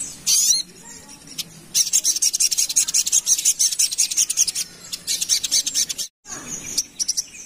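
Little spiderhunter (sogok ontong) singing. A quick rising note comes near the start, then a fast run of sharp, high chips lasting about three seconds, and another shorter run of chips later. The sound cuts out completely for a moment about six seconds in.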